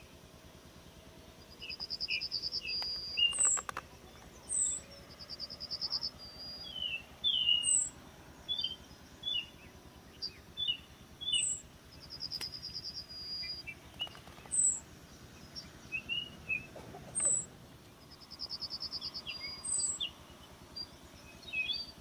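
Small birds chirping and calling, with short sharp notes and, every few seconds, a quick buzzy trill.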